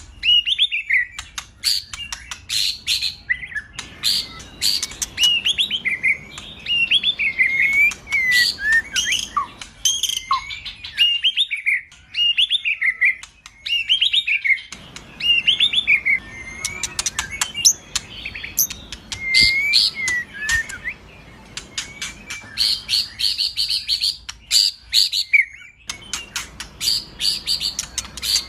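Male white-rumped shama singing a rich, varied song of whistled phrases that glide up and down, mixed with sharp chattering notes. Later on come runs of fast repeated notes.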